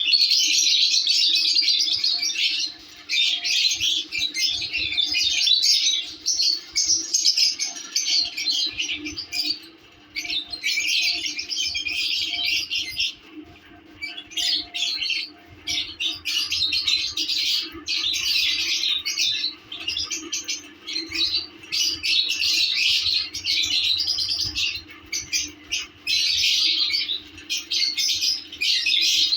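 Lovebirds chattering: rapid, shrill chirping and squawking in bouts of a few seconds, with brief pauses between them.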